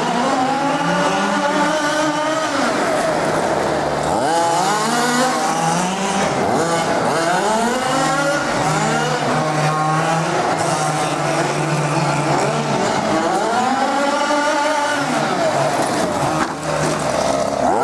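Two-stroke petrol engines of large-scale RC cars revving up and down again and again as they are driven, the pitch climbing and dropping with each burst of throttle.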